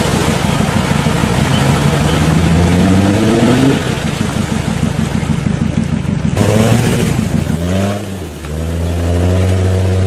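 Off-road 4x4 engine revving under load, its pitch climbing over the first few seconds. About six seconds in the sound changes abruptly, then the engine drops and settles to a steady lower note.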